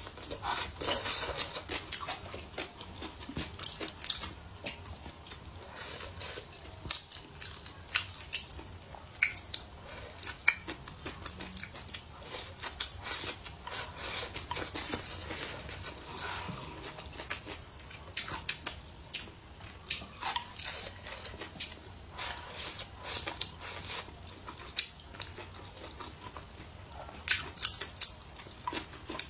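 Person eating: wet chewing and mouth noises, with many short, irregular smacking clicks as bites of stir-fried wheat gluten, green pepper and fried egg are taken and chewed.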